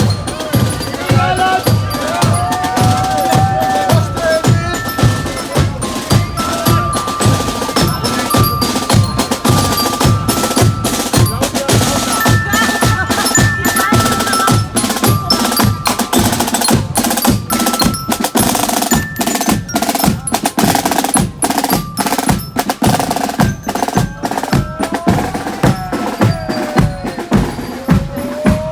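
Marching band playing a march: drums keep a steady beat of about two strokes a second under a bright melody of bell-like and wind tones.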